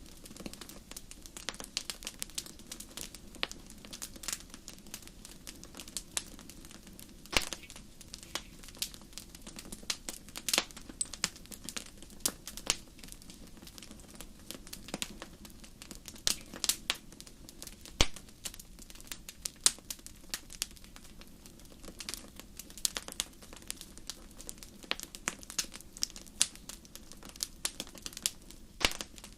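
Wood fire crackling: irregular sharp pops and snaps, several a second, over a steady low background.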